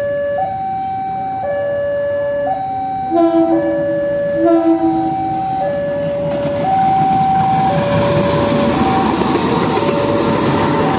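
Railway level-crossing alarm sounding a steady two-tone hi-lo signal, switching pitch about once a second, as a train approaches. A locomotive horn gives two short blasts about a second and a half apart a few seconds in, then the rumble of the passing train grows louder.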